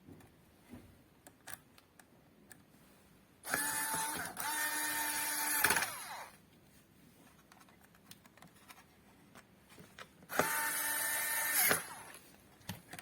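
Hot-air rework station blowing in two bursts of a couple of seconds each, a steady rushing hiss with a fan whine, starting and cutting off sharply, as the amplifier's processor chip is heated to solder it in place. Light clicks and handling in between.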